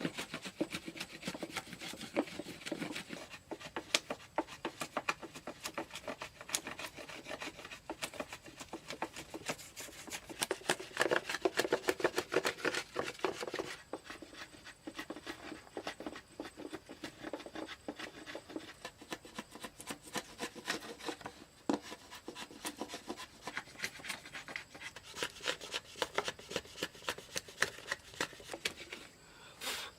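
A hand tool scraping wood: a continuous run of rough, rapid scraping strokes that grows heavier in two stretches.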